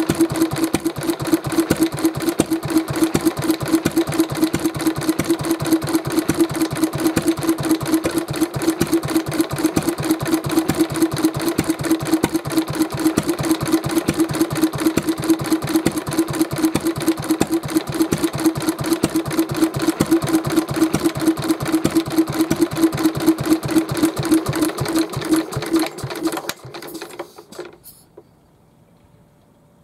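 Mitsubishi J1A-type kerosene stationary engine running with a steady, even firing beat, then slowing and dying out about 27 seconds in as it is shut down.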